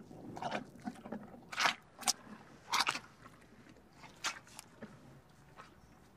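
A rhinoceros chewing grass: a few irregular, separate crunches.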